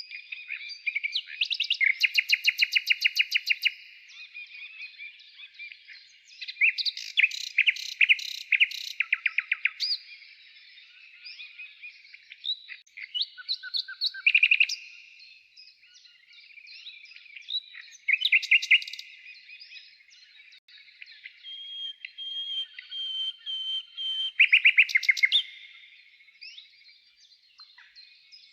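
Songbirds singing, several at once: a background of chirps and short calls, broken by loud phrases of fast repeated notes that run a couple of seconds each, four times.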